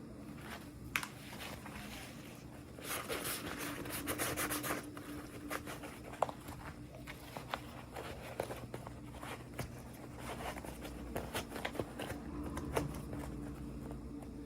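Hands handling toy packaging: rubbing and rustling with scattered small clicks and taps, and a denser burst of rustling about three seconds in, over a faint steady hum.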